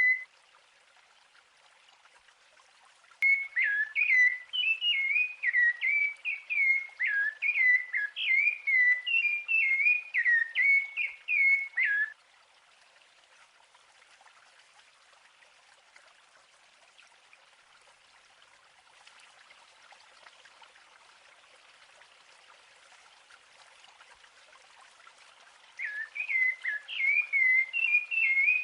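A songbird singing long runs of quick whistled notes that sweep up and down, from about three seconds in to about twelve seconds, and again near the end, over a faint steady hiss.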